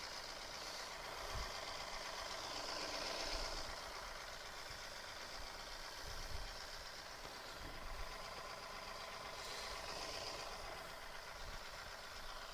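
John Deere 2038R compact tractor's three-cylinder diesel engine running steadily under light work, with a few soft knocks as the machine works the pile.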